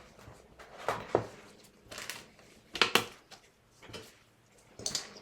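Light clicks and taps of small hard nail-art tools and bottles being handled, about half a dozen over a few seconds.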